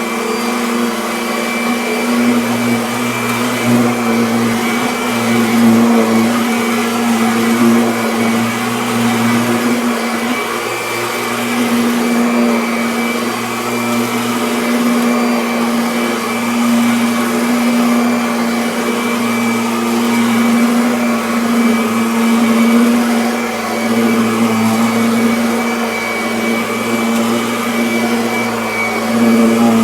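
Kirby Avalir upright vacuum cleaner running steadily while vacuuming carpet: a loud motor hum with a strong steady tone and slight rises and falls in loudness.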